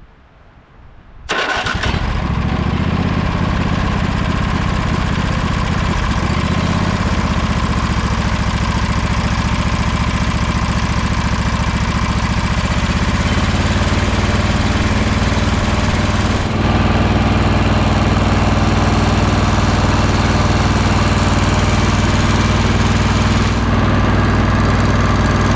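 Sabre by John Deere lawn tractor engine starting up about a second in and running steadily on its freshly cleaned carburetor, its pitch shifting slightly partway through.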